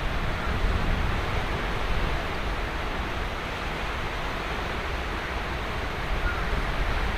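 Ocean surf washing steadily onto a sandy beach, a continuous deep rushing with no single wave standing out, with some wind on the microphone.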